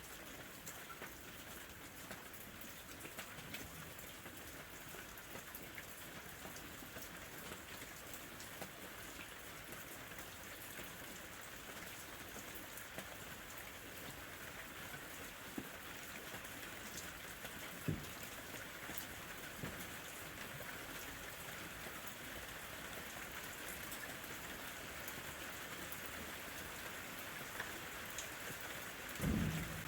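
Steady summer rain falling, with many small drops ticking on a surface. There is one sharper drop knock about two-thirds of the way through and a brief low rumble near the end.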